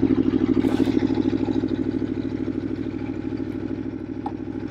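Aprilia Tuono V4's V4 engine idling with a steady, rapid, even pulse, easing off slightly in loudness.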